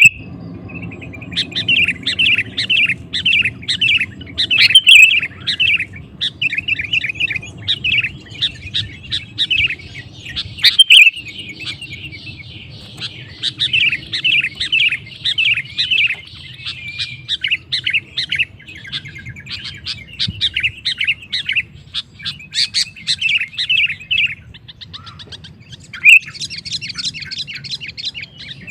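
Sooty-headed bulbul (kutilang) singing energetically in rapid, continuous runs of short chirping notes, with a faster, higher run near the end. A steady low hum lies underneath.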